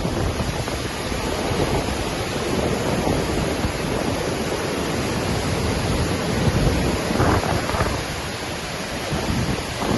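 Waterfall in Iceland: a steady, full rush of falling water, with low rumbling and slow swells that read as wind buffeting the microphone.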